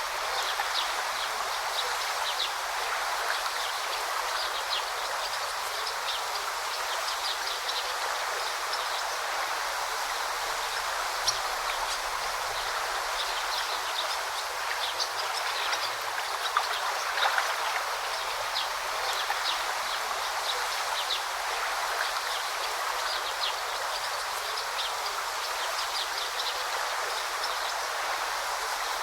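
A stream flowing steadily, with short high bird chirps scattered throughout.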